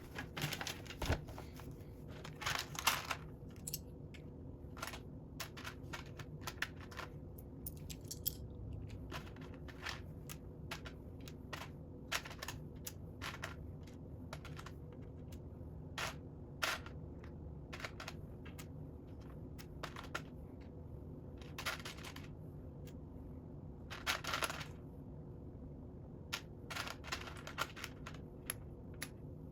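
Plastic Lego bricks clicking and clattering as pieces are handled and pressed together: irregular small clicks, with a few brief rattling flurries.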